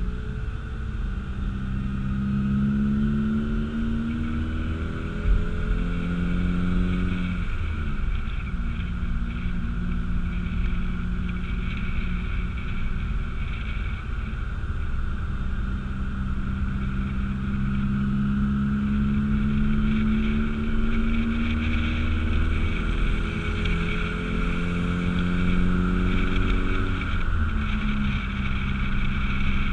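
Car engine running while driving slowly, its pitch climbing gradually and then dropping sharply twice, about seven seconds in and near the end.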